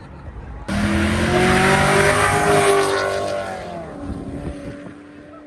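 A car accelerating hard, engine revving with a loud exhaust rush that cuts in suddenly under a second in and fades after about three seconds.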